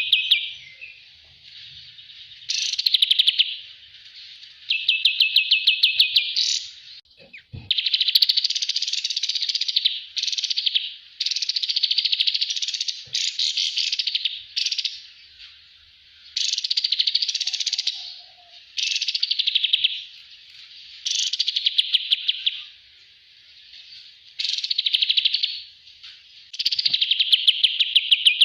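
Kapas tembak songbird singing a master song: high-pitched, fast trilled phrases repeated one after another with short pauses between them.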